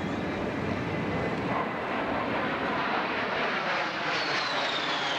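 Fixed-wing aircraft engine noise, a steady rushing sound. Near the end a high whine begins sliding down in pitch as the aircraft goes by.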